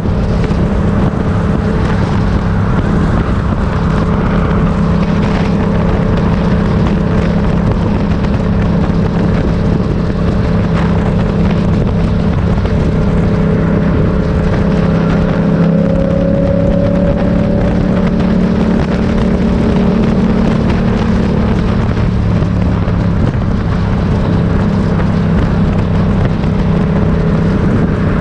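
Motorcycle engine running steadily while riding, with wind noise on the microphone; its pitch rises and falls a little about halfway through.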